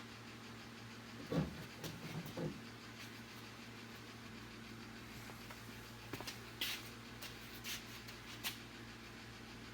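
A handful of light knocks and clicks, a few around a second in and more about six to eight and a half seconds in, over a steady low hum.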